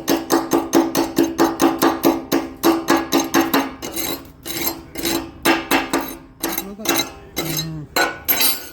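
Rapid hammer strikes on steel, about five a second with a ringing metallic tone, slowing to scattered blows in the second half.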